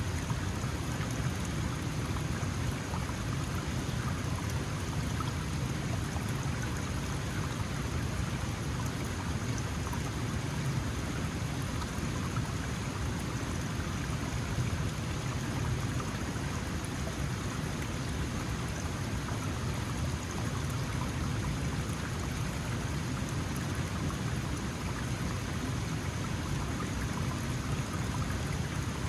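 Small mountain stream flowing: a steady, even rush of water that does not change.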